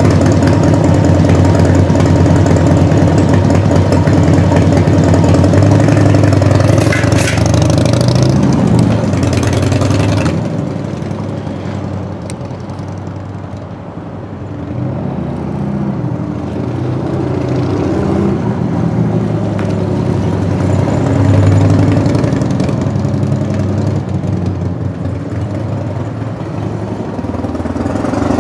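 Harley-Davidson Evolution V-twin engine of a 1990 FXSTS Springer Softail running: held at higher revs for the first ten seconds or so, then dropping to a quieter, uneven loping idle of the kind tuned for a three-beat (sanbyoshi) rhythm, picking up again near the end.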